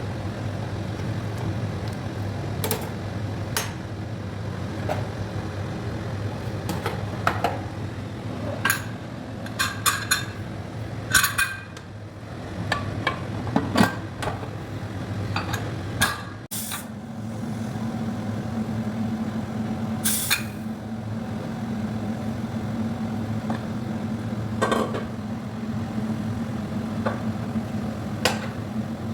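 Metal utensils clinking and knocking against a cooking pot, scattered strikes over a steady low hum. About halfway through the hum changes and a higher steady drone comes in.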